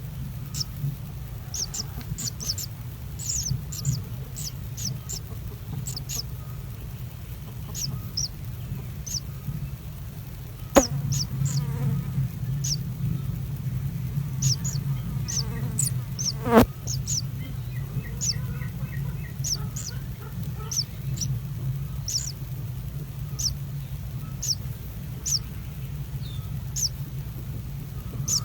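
A small bird giving short, high-pitched chirps again and again, over a steady low hum. Two sharp clicks come in the middle.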